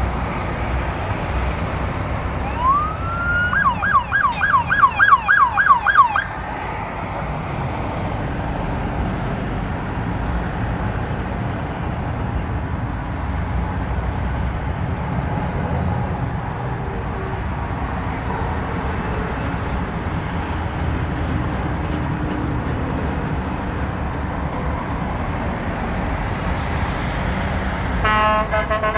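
Steady rumble of road traffic. About three seconds in, an emergency vehicle siren rises in pitch and then switches to a fast yelp for about three seconds. Near the end a vehicle horn sounds.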